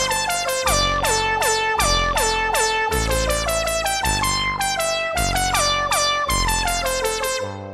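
Electronic music played on a meow synth: quick pitched notes with a short downward bend on each, over a deep bass note about once a second, panned in 8D style. Near the end the bass drops away and the tune changes.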